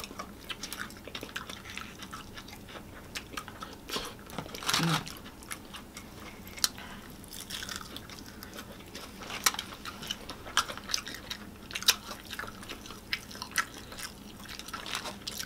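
Close-up chewing and biting of Popeyes fried chicken: wet mouth sounds with scattered sharp clicks and crunches from the breaded skin.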